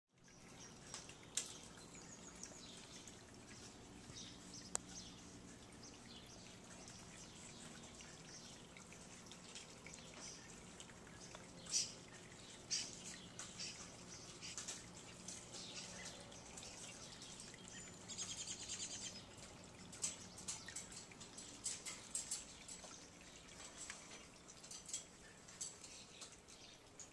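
Faint scattered bird chirps mixed with small clicks and taps, with a short rapid trill a little past the middle.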